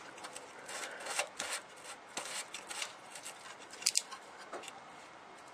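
Spark plug being screwed back into a small petrol engine by hand: faint, irregular metallic scrapes and clicks from the threads and handling, with a sharper click about four seconds in.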